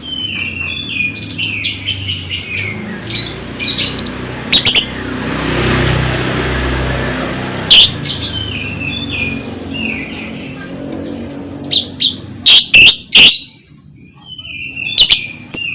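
Lovebirds chattering in quick, short chirps that fall in pitch, with a few loud, sharp shrieks about halfway through and again near the end. A rushing noise swells and fades near the middle.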